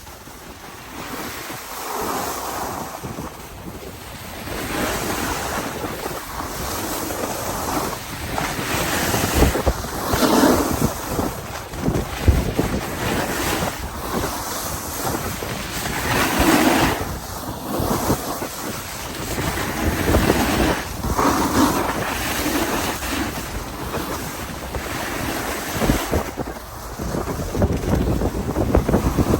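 Mountain creek water flowing, a steady noisy wash that swells and eases, with wind buffeting the microphone in low rumbles.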